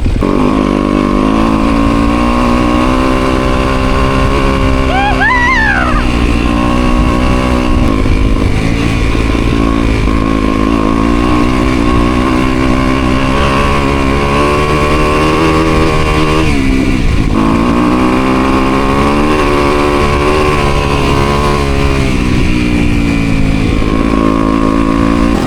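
Yamaha motocross bike engine revving as it is ridden hard, its pitch rising and falling with the throttle, with a brief drop off the throttle about two-thirds of the way through.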